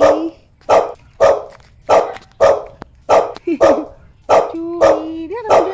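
Small dog barking over and over, about two barks a second, with a drawn-out whine between barks near the end.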